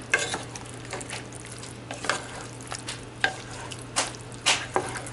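A utensil stirring fried potatoes with meat in a hot pan just taken off the heat. Irregular scrapes and knocks against the pan sound over a faint sizzle and a steady low hum.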